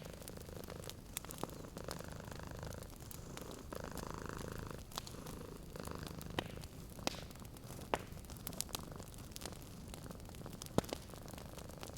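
Domestic cat purring steadily, swelling in waves about every two seconds. Sharp pops and crackles from a wood fire sound here and there throughout.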